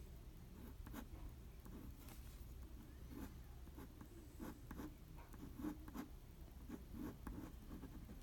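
Faint, quick scratching strokes of a drawing tool on paper, coming irregularly as feathers are sketched.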